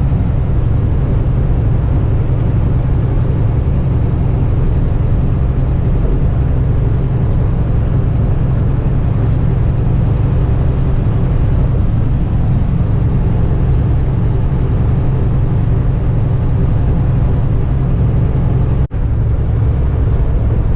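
Steady in-cab drone of a Kenworth semi-truck cruising at highway speed: the low hum of the diesel engine mixed with tyre and wind noise. It briefly cuts out for a split second near the end.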